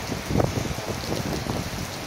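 Heavy thunderstorm rain pouring and splashing on surfaces, a dense steady hiss, with a brief louder low burst about half a second in.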